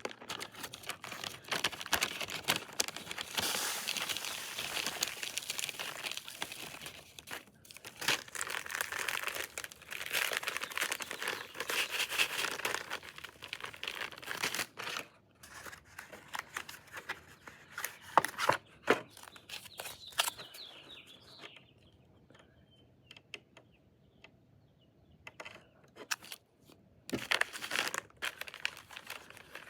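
Plastic MRE packets and wrappers being handled and crinkled, with many small crackles during the first half. Then quieter, with a few sharp clicks and taps.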